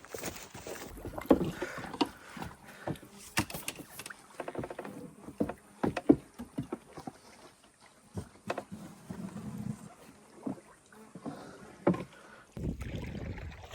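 A canoe being paddled: irregular knocks of the paddle against the hull and splashes of water.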